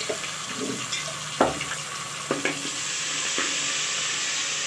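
Sliced onions and ginger-garlic paste sizzling in hot oil in an aluminium pot, with a spoon knocking sharply against the pot three times as it is stirred. The sizzle grows louder in the second half.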